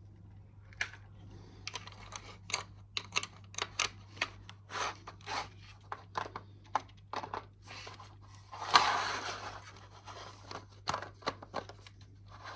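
Plastic Lego pieces clicking, rattling and scraping as a piece is worked and pressed into place on the model, with a louder rustling scrape about nine seconds in. A faint steady hum lies underneath.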